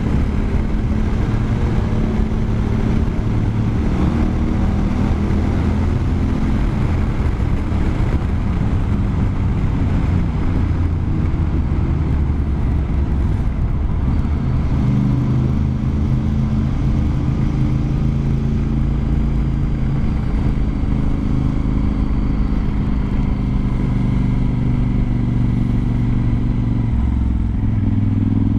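Honda Varadero XL1000V's V-twin engine running steadily under way, its note shifting in pitch a few times with throttle or gear changes.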